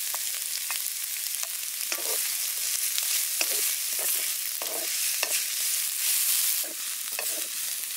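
Julienned ginger and minced garlic sizzling in hot oil in a stainless steel wok, with a wooden spatula scraping and stirring them in short strokes every half second or so.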